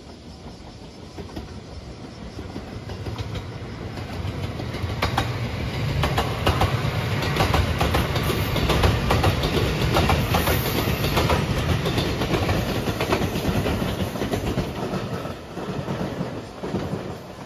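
Rapid Marine Liner electric train passing close by. Its rumble builds, then the wheels clack over the rail joints as the cars go past, and it fades away near the end.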